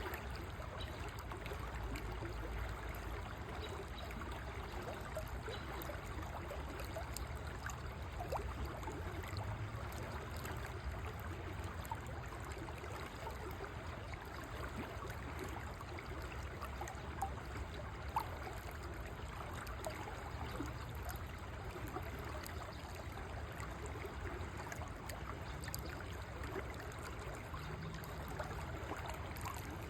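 River water flowing steadily, a continuous trickling and gurgling rush, with two brief ticks a little past halfway.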